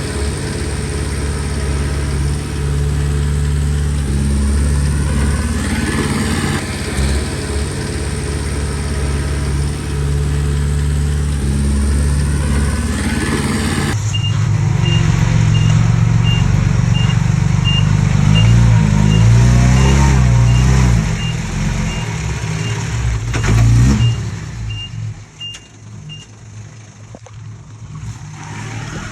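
Komatsu D20P bulldozer's diesel engine running and working under load, its pitch rising and falling. Partway through, a regular high beep starts and keeps going for about twelve seconds, and near the end the engine sound drops off.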